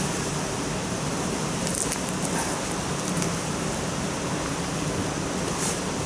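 Steady rush of water pouring from a canal lock overflow, with a few faint clicks.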